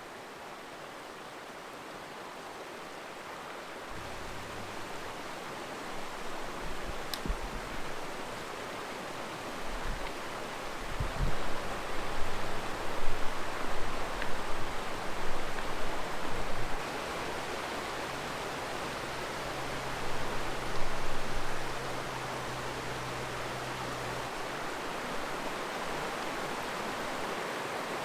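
Steady rush of a creek's flowing water, slowly growing louder, with low rumbling bumps on the microphone in the middle.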